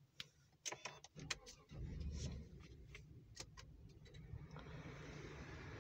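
A GMC's engine being started from inside the cab: a few sharp clicks, then about two seconds in the engine catches with a brief surge and settles into a steady low idle. Near the end a rising hiss from the climate-control fan joins it.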